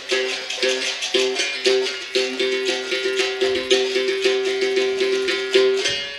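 Berimbau, the capoeira musical bow, played in a quick steady rhythm: the stick strikes the steel wire in runs of notes switching between two pitches, with the caxixi basket rattle shaking along on each stroke. The playing stops shortly before the end, leaving a fading ring.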